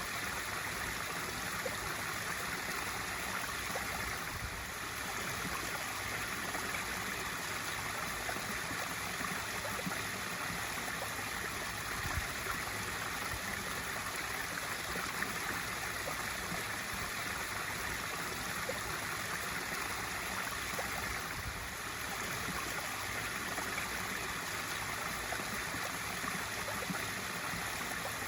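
Pool waterfall feature: water spilling over and splashing steadily into a swimming pool, an even rushing splash with no breaks.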